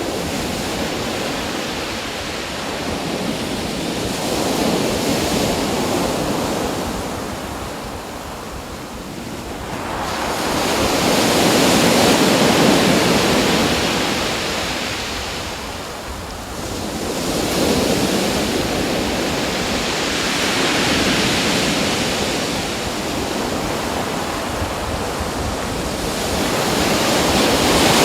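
Surf: waves washing in, a steady rush that swells and fades every four to six seconds.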